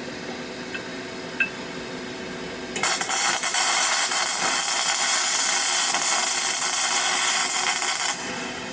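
Flux-core arc welding with a Parkside PMSG 200 A1 wire welder. After a couple of faint clicks, the arc strikes about three seconds in and crackles and sputters steadily for about five seconds, then cuts off.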